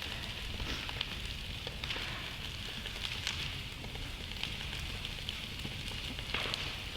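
Campfire burning, crackling with frequent irregular sharp pops over a steady hiss.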